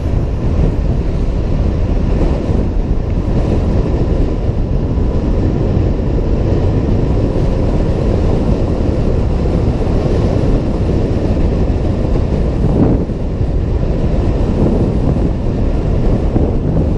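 Steady wind rush buffeting a helmet-mounted camera microphone on a moving Honda PCX 125 scooter, with the scooter's running and road noise mixed in. It eases briefly about two-thirds of the way through.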